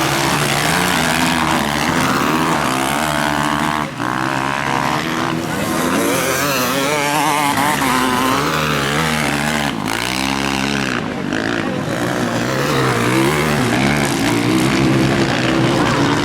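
Several motocross bikes' engines racing, revving up and down as they go round the track, with one passing close and its pitch rising then falling around ten seconds in.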